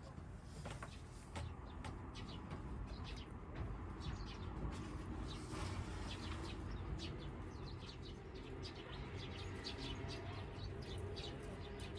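Small birds chirping in many short, quick notes, over a steady low rumble of background noise.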